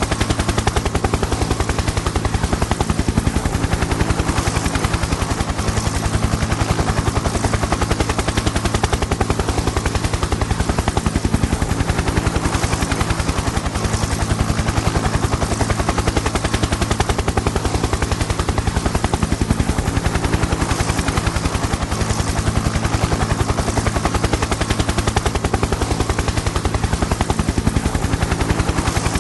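Helicopter in flight: the rotor blades chop fast and evenly over a steady engine drone.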